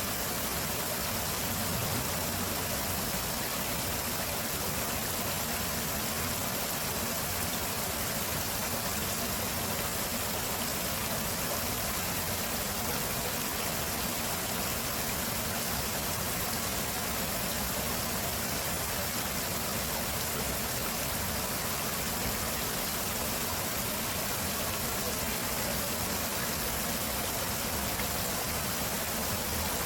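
Steady rush of flowing stream water, an even noise that stays the same throughout.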